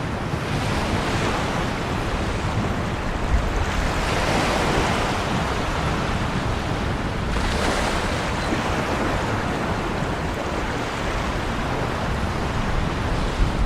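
Ocean waves breaking and washing on the shore, a steady surf with swells rising a few seconds in and again about halfway through.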